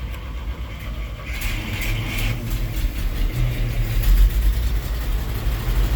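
GMC 305 V6 engine of a medium-duty truck running and gradually getting louder, just started after sitting eight years and fed on old rusty fuel.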